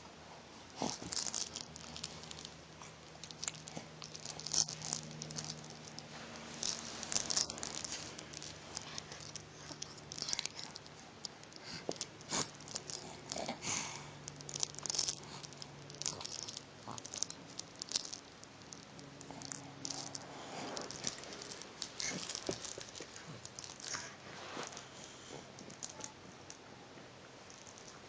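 A toy being chewed: irregular crinkling, clicking and gnawing noises that come and go in short bursts, over a faint low hum.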